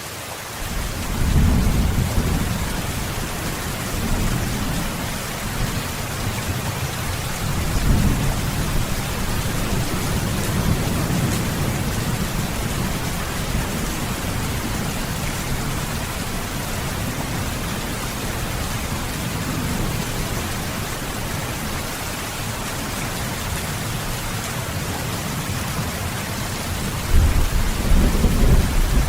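Heavy rain falling steadily, with several low rolls of thunder swelling and fading, the loudest near the end.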